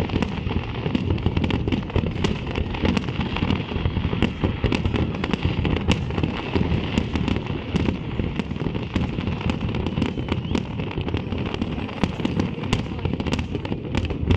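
Fireworks display going off without a break: a dense, continuous run of bangs, pops and crackling.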